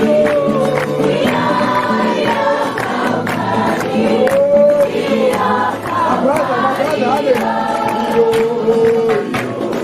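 Several voices singing a worship song together over a steady, sharp beat.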